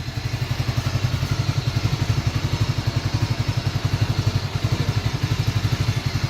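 A new motorcycle's engine idling with a steady, even low putter of about ten beats a second.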